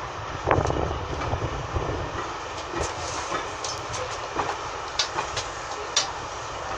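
Railway carriage running on the track, heard from on board: a steady low rumble of the wheels with sharp clicks and knocks from rail joints and the coach's running gear, one louder knock about half a second in.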